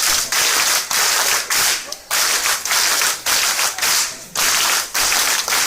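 Loud hiss of heavy rain, coming in irregular surges with short breaks.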